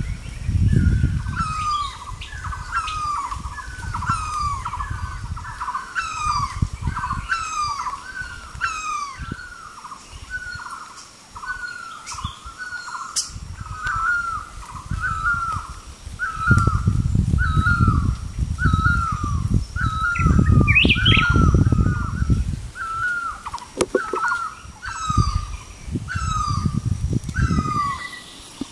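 A bird calling over and over, a short hooked whistle about every three-quarters of a second, with thin high chirps from other birds now and then. Bursts of low rumbling come and go under the calls.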